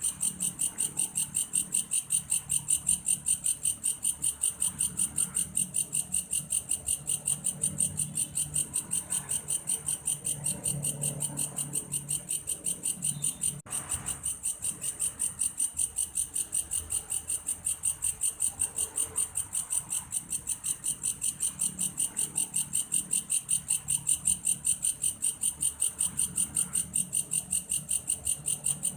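A belalang kayu, a cricket-like singing insect, chirping continuously in a steady high pulsing rhythm of about three to four pulses a second, with a momentary break about halfway through.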